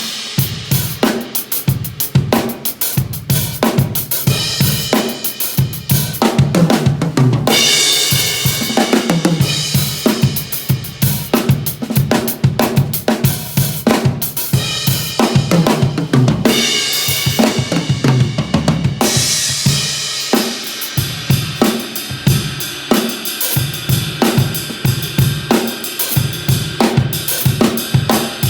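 Sakae drum kit with Meinl cymbals played solo in a busy groove with fills: quick snare and bass drum strokes with hi-hat, and cymbal crashes ringing out about eight, fifteen and nineteen seconds in.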